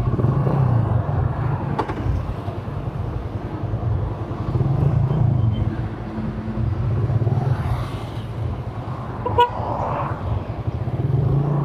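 Suzuki Raider 150 motorcycle running on its hollowed-out stock exhaust as it is ridden in traffic, the engine note rising and falling with the throttle. A vehicle horn sounds briefly.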